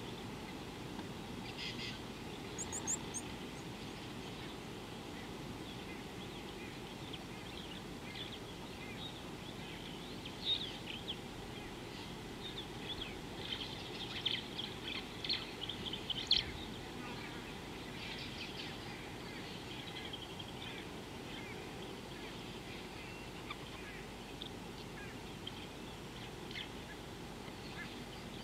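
Wild birds chirping and calling in short, scattered notes, busiest in the middle, over a steady low background noise.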